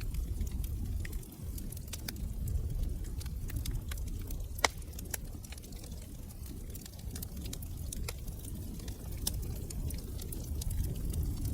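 Fireplace log fire crackling, with irregular small pops over a steady low rumble of burning. One sharp, louder pop comes a little under halfway through.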